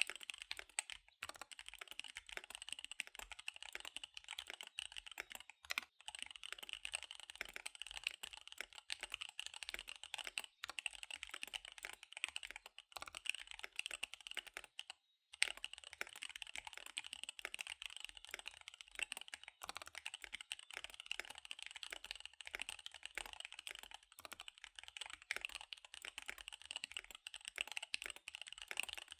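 Fast typing on a KBD75 V3 mechanical keyboard with SP-Star Dark Magic Girl tactile switches and DSA keycaps: a rapid, steady clatter of keystrokes, broken by a brief pause about fifteen seconds in.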